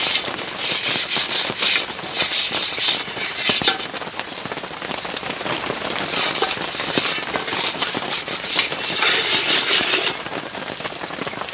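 Steady rain falling outdoors, its hiss swelling and easing, with many sharp clicks running through it.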